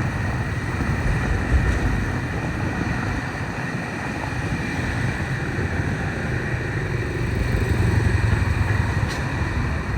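A motor vehicle running steadily, with continuous engine and road noise.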